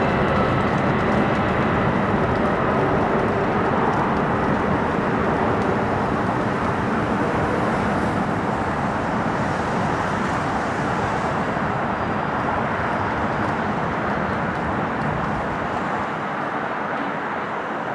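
Jet engines of a Boeing 767 airliner on approach: a loud, steady rushing rumble that slowly fades as the plane draws away, with a faint high whine dying out in the first couple of seconds.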